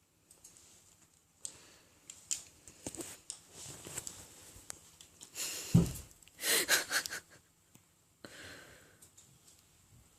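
A cat playing with a toy bird: irregular rustling, scuffling and clicks, with a thump about six seconds in and a quick burst of rustles just after it.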